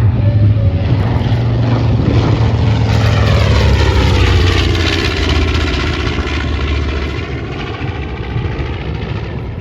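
B-25 Mitchell bomber's two Wright R-2600 radial piston engines droning as the plane flies past. The sound swells to its loudest about four seconds in, its tone sweeping down and back up as it passes, then fades.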